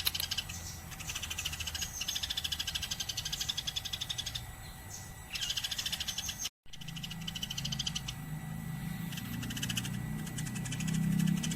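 Eurasian tree sparrows (burung gereja) chattering in fast, continuous high-pitched chirp trains, with short pauses. After a brief dropout about two-thirds through, a low hum comes in and grows toward the end.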